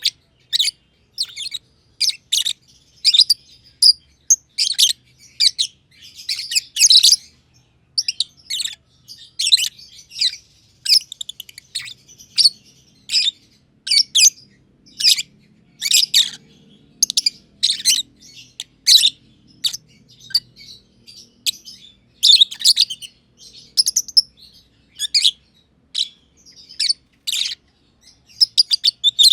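A pair of masked lovebirds (green and green pied personata) chirping: a continuous string of short, sharp, high-pitched chirps at irregular spacing, sometimes several in quick succession.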